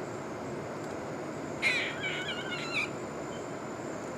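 A bird's wavering, trembling crying call, about a second long, starting about a second and a half in, loudest at its start, over a steady background hiss. It sounds like a newborn bird crying for food.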